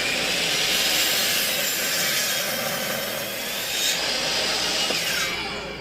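Electric miter saw running and crosscutting an air-dried cherry board, loud throughout, then the blade spinning down with a falling whine near the end.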